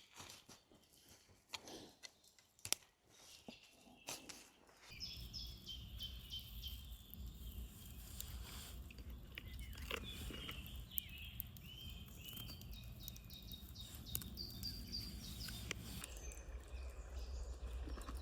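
Small birds chirping with short repeated calls in a forest, over a low steady rumble that sets in about five seconds in. A few scattered knocks and crunches come in the first seconds.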